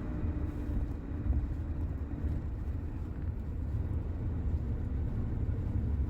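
Shuttle bus running along a mountain road, heard from inside the cabin as a steady low engine and road rumble.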